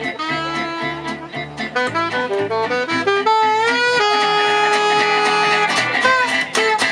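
Gypsy jazz (jazz manouche) band playing live: a lead melody instrument plays a phrase and holds a long note in the middle, over strummed guitar and bass.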